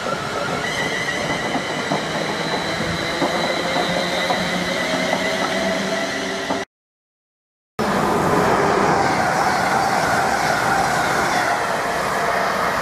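A London Midland Class 350 Desiro electric multiple unit passes, its traction equipment whining in several steady tones over clicks from the wheels. The sound cuts out for about a second, then a Virgin Voyager diesel unit runs through at speed with a louder, steady noise of wheels and engines.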